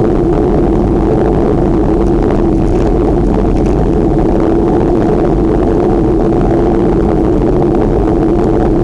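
Steady rumbling noise of wind on the microphone of a rider on a moving bicycle, with no breaks or changes.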